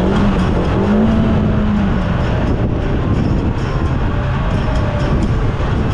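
Polaris RZR Pro R side-by-side's engine running under throttle, its pitch rising and falling several times and settling lower in the second half, over heavy driving rumble.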